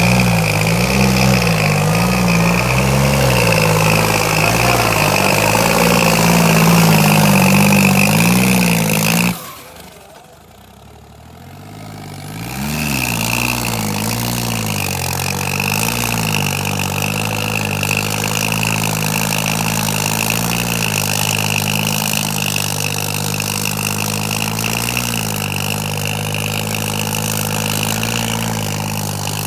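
John Deere tractor engine running under load while pulling two harrows, its pitch wavering up and down, with a steady high whine alongside. About nine seconds in the sound drops away for roughly three seconds, then the engine is heard again.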